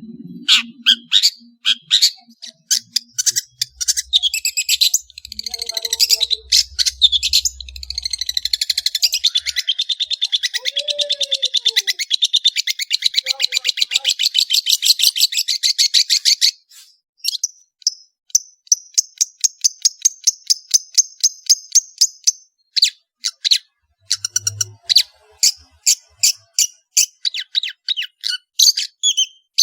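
Long-tailed shrike (cendet) singing energetically: a long, fast, scratchy chattering trill for about ten seconds, then quick clipped notes and a thin, high buzzy trill.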